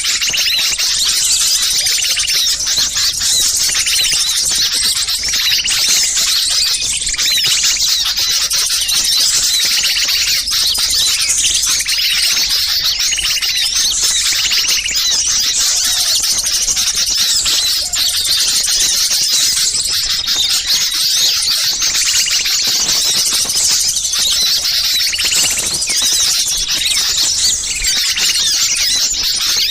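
Dense, continuous chorus of many small songbirds chattering and calling at once, an agitated mixed-flock bird-lure recording made to draw wild small birds in.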